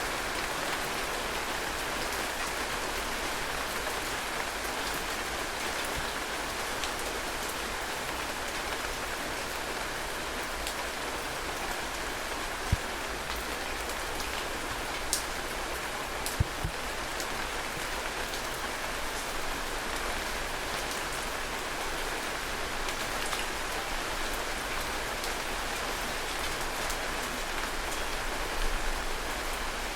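Heavy rain falling steadily: an even hiss of rain with many close drop splatters, and a few sharper, louder single drop hits about halfway through.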